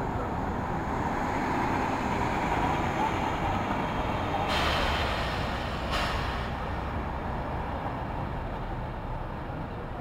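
City street traffic: the steady rumble of passing vehicles swells through the middle. About halfway through there is a short burst of hiss lasting a second or two.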